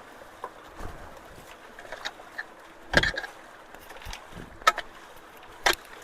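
A hand tool knocking and scraping rocks in shallow running water at a culvert, with splashes: a few small clicks early on, then three louder sharp knocks in the second half.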